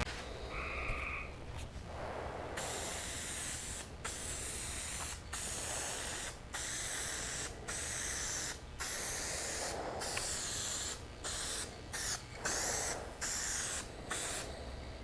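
Aerosol spray can of finish coat hissing in repeated passes of about a second each, with brief breaks between them.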